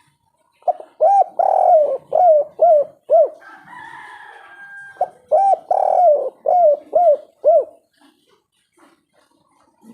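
Spotted dove (tekukur) singing its 'kuk 3' coo song: two phrases of about six hoarse, arching coo notes each, a couple of seconds apart. A fainter higher-pitched sound comes between the phrases.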